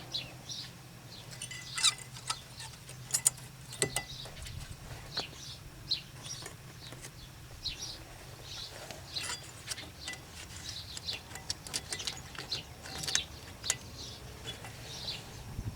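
Scattered light clicks and taps of a brake caliper being fitted back onto its bracket, with birds chirping in the background.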